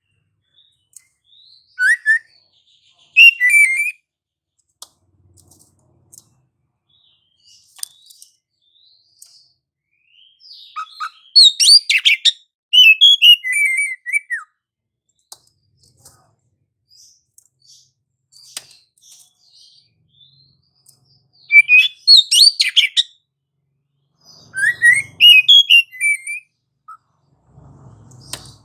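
Oriental magpie-robin (kacer) in full song: loud phrases of sliding whistles mixed with scratchy, chattering notes, five or so phrases with pauses of a few seconds between them. The longest phrase runs about four seconds near the middle.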